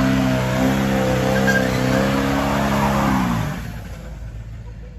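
Lifted pickup truck's engine held at high revs during a burnout, with tyre noise over it. About three and a half seconds in, the revs drop off sharply and it goes quiet. This is the burnout after which the truck's transmission is judged done.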